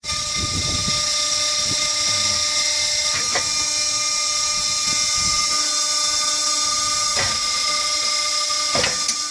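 Steady high-pitched motor whine from a homemade vertical log splitter running, with three brief knocks spread through it.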